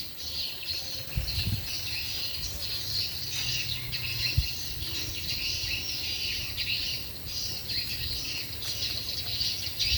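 A large number of edible-nest swiftlets chirping from inside a swiftlet house, making a dense, continuous high twittering. A low rumble runs underneath.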